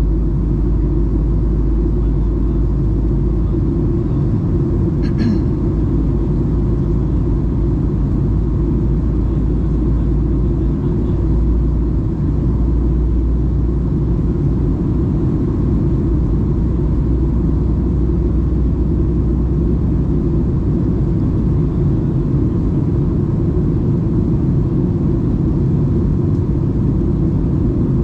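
Steady cabin rumble of a Boeing 737-800 in flight: engine and airflow noise, even and low, with a brief click about five seconds in.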